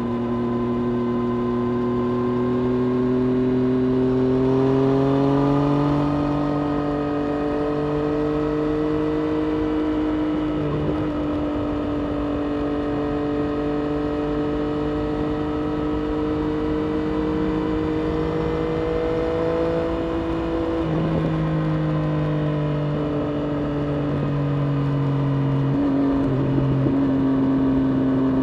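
Triumph Street Triple RS 765 inline three-cylinder engine running hard on track, its note climbing and falling with the revs and jumping in pitch at several gear changes.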